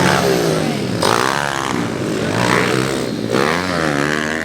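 Motocross dirt bike engines revving, the pitch rising and falling over and over as the riders open and close the throttle and shift.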